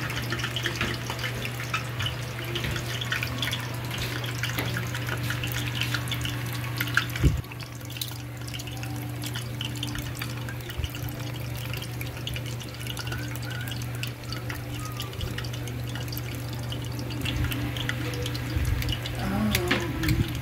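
Batter-coated eggs deep-frying in a small pot of oil, the oil crackling and sizzling, more densely in the first seven seconds, over the steady hum of an electric fan running full blast. A single sharp knock about seven seconds in.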